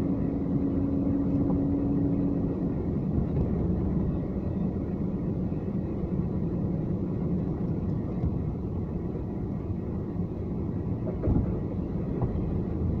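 A car driving, with a steady low rumble of engine and road noise. A faint steady hum drops out about two and a half seconds in, and a short thump comes near the end.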